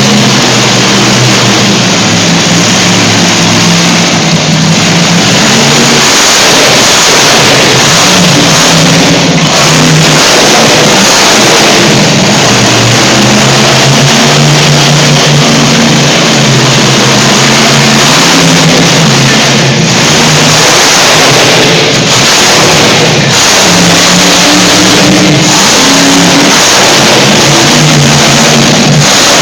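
Monster truck engine revving hard and easing off again and again, very loud throughout, its pitch climbing and dropping with the throttle.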